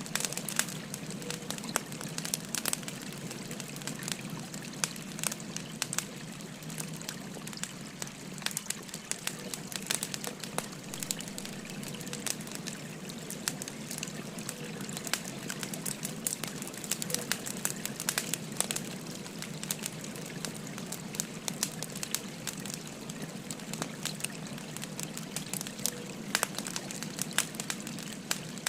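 Burning firewood crackling, with frequent irregular sharp pops and snaps, over the steady rushing of a flowing stream.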